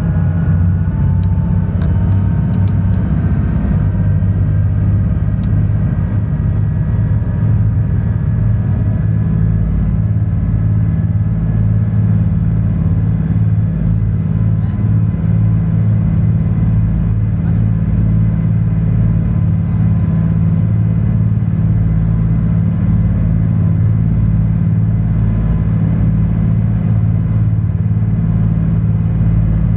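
Sightseeing cruise boat's engine running steadily, a low drone heard on board, with the rush of the boat moving through the water.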